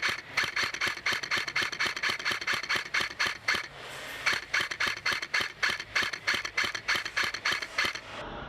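Customised KWA Commando airsoft electric gun firing rapid single shots, about four a second, with a short pause a little before the middle. The firing stops near the end.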